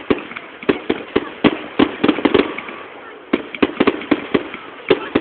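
Fireworks going off in quick, irregular volleys of sharp bangs, several a second, with a short lull about halfway through.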